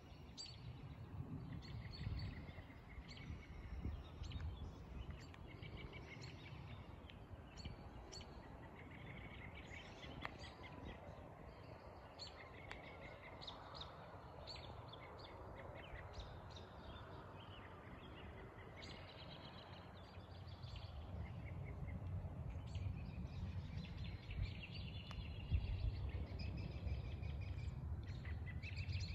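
Several birds calling and singing, with many short chirps and repeated trills, over a low rumble that grows louder in the last third.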